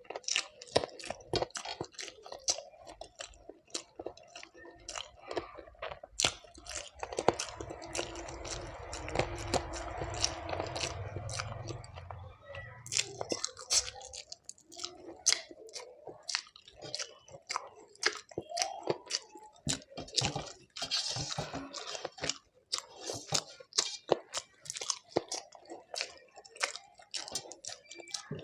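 A person eating close to the microphone, chewing and biting with many short, crisp clicks and crunches. A low rumble runs under it for several seconds in the middle.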